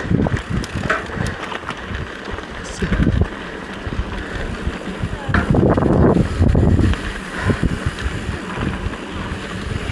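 Wind buffeting the microphone, a gusty low rumble that is strongest about five to seven seconds in.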